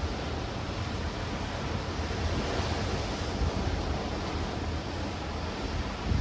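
Sea surf breaking and washing over black rocks and stones on the shore, a steady rush that swells as a wave comes in two to three seconds in. Wind buffets the microphone underneath with a low rumble.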